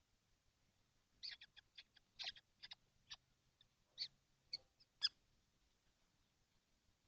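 Young kestrels in a nest box giving a run of about a dozen short, high calls, from about a second in to about five seconds in.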